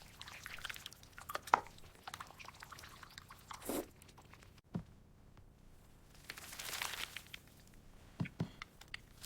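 Close-up eating sounds: food crunching and being chewed, in scattered small crunches with a couple of softer swishing rustles.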